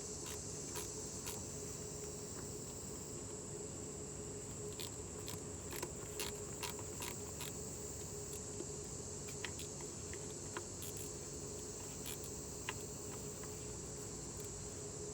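A steady high-pitched insect chorus, with scattered light clicks at irregular moments over it.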